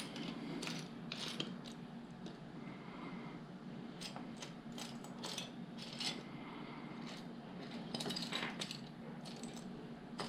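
Small plastic LEGO pieces being rummaged through, with many light, irregular clicks and rattles as the bricks knock together.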